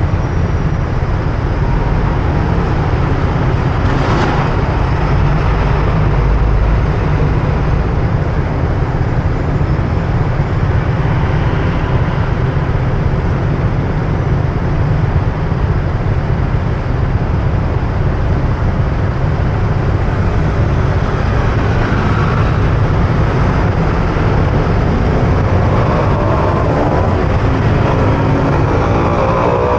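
Wind buffeting the microphone of a moving motor scooter, with road traffic around it. Near the end an engine's pitch rises as it speeds up.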